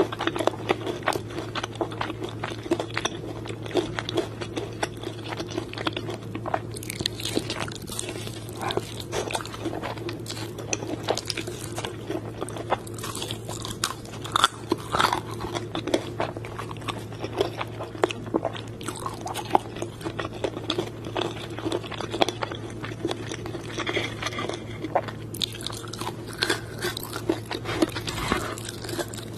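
Close-up crunching and chewing as someone bites into crispy fried chicken coating, a dense run of irregular crackly bites and chews.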